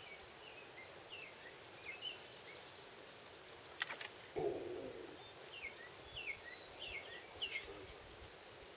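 Small birds chirping, a scatter of short falling notes, over a faint outdoor hiss. Just before four seconds in come a couple of sharp clicks, then a brief scuffing rustle as a spinning rod and reel are handled.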